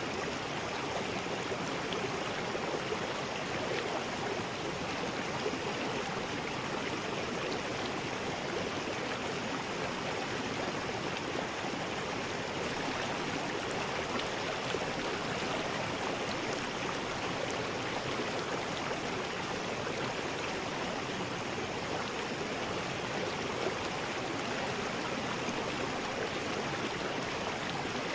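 River rapids: fast water rushing steadily over rocks, an unbroken rush of noise without pauses or single splashes.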